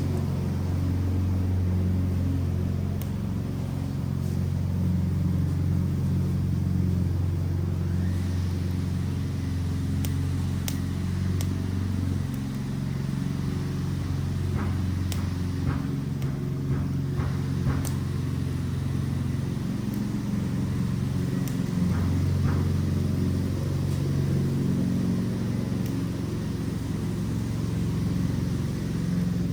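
Fire burning an Adirondack chair, with a steady low rumble and scattered sharp crackles and pops, clustered mostly in the middle.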